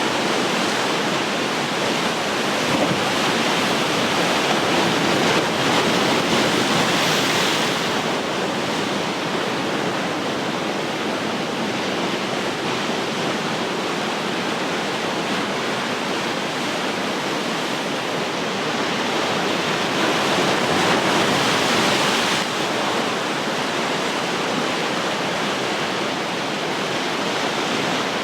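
Ocean surf washing onto the shore in a steady hiss, swelling twice as waves break, about a quarter of the way in and again past two thirds of the way through.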